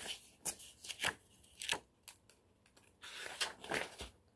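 Paper rustling: several short sharp rustles, then a longer rustle about three seconds in, as the pages of a picture book are handled and turned.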